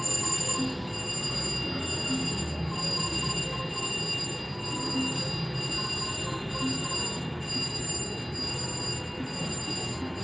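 Casino floor ambience: slot machines playing short electronic chimes and beeps over a steady background drone, with a quiet jingle repeating about once a second.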